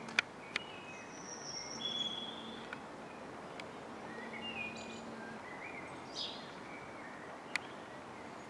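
Songbirds chirping and trilling in short high phrases, with a few sharp clicks, the loudest just after the start, over faint outdoor background noise.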